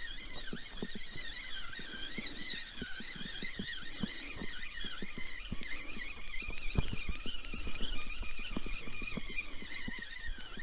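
Birds chirping and warbling steadily, with irregular soft clicks and knocks close by throughout.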